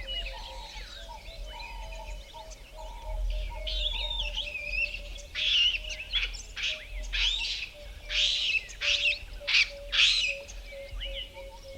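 Dawn chorus of several wild birds in Eastern Cape valley bushveld: varied chirps and whistles over a steady run of short, low repeated notes. From about five seconds in, a run of about eight loud, harsh calls is the loudest thing, ending near ten seconds.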